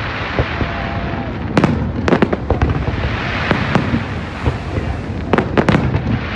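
Fireworks going off, with sharp bangs and crackles in a cluster about a second and a half in and another near the end, over a steady background din.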